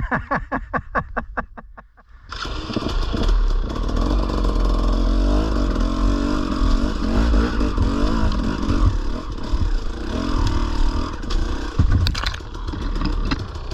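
Dirt bike engine ticking over in an even beat that fades away, then a little over two seconds in a motorcycle engine comes in loud and keeps running with its pitch wavering as it is revved.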